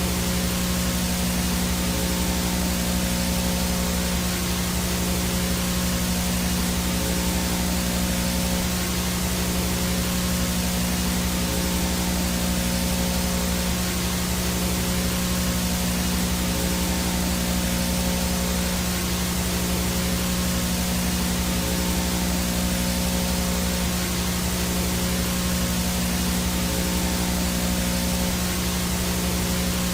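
VHS no-signal static: a dense, steady hiss with a low hum underneath, unchanging throughout.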